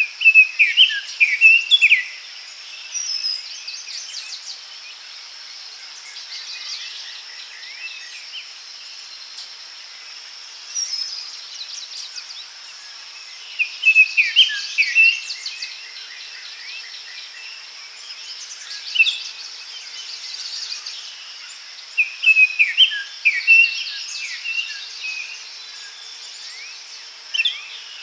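Daytime forest ambience: songbirds sing short, chirpy phrases every few seconds over a steady high-pitched insect buzz.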